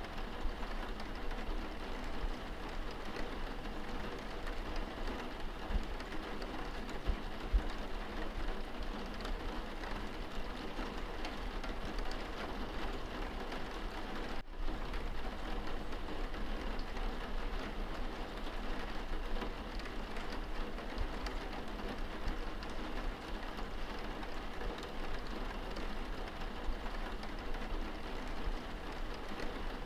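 Steady rain falling on window glass, heard from inside the room, a dense even patter of drops. There is a momentary break in the sound about halfway through.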